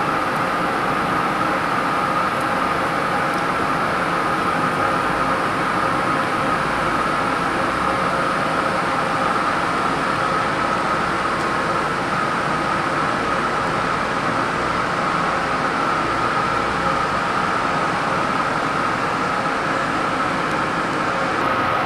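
Steady factory machinery noise: a continuous mechanical drone with a high steady whine running through it.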